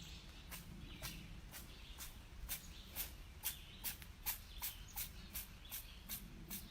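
Faint, short sharp clicks repeating fairly evenly, about two to three a second, over a low steady background.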